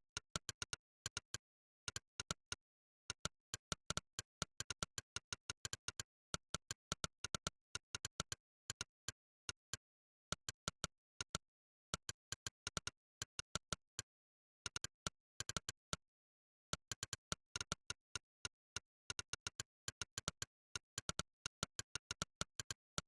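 Monkeytype's synthetic 'click' keypress sound, one short sharp click per keystroke, coming in quick irregular runs like typed words with brief pauses between them.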